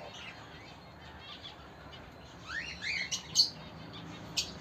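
Cockatiels calling: a few quick rising whistles past the middle, mixed with short sharp chirps.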